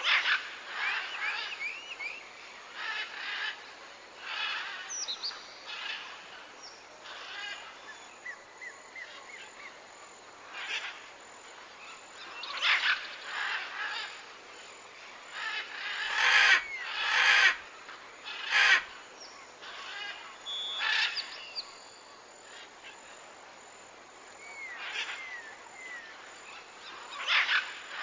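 Birds in a tropical forest calling: a series of short chirps and whistled notes, some gliding, with three louder, harsher calls a little past the middle.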